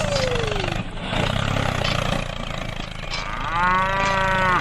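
An engine running steadily at idle, with a long drawn-out lowing call, like a moo, over it in the last second and a half.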